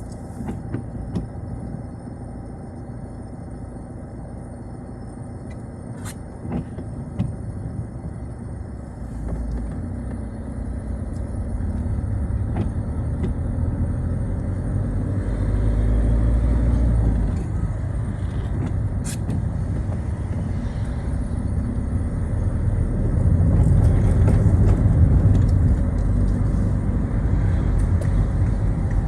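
Citroën Xsara on the move, its engine and tyre rumble swelling as the car gathers speed, with a few sharp clicks along the way.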